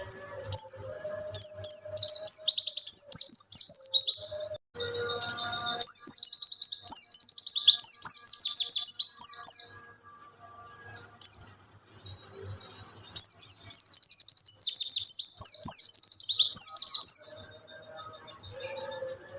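A pleci (white-eye) in full, vigorous song: three long bouts of fast, high twittering and warbling, each lasting about four seconds, with short pauses between them.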